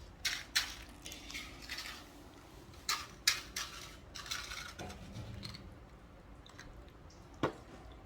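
Short crackling rustles and clicks of sweets and their wrappers being handled while eating, coming in irregular clusters with a sharper click near the end.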